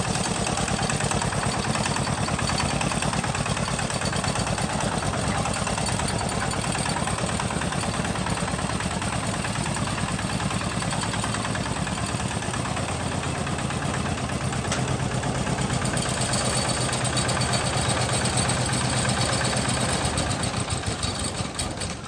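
Homemade tractor's engine running steadily with a rapid, even pulse, fading out near the end.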